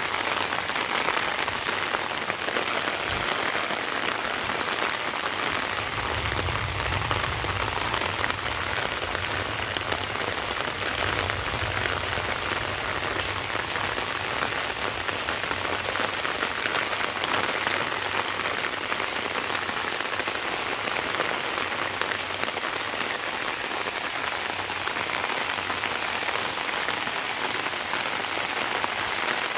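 Steady rain falling on a waterlogged grassy field with standing puddles: an even, unbroken hiss of drops with no let-up.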